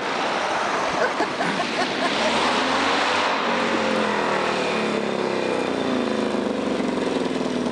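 Motorbike engine running, its pitch falling slowly and steadily over several seconds.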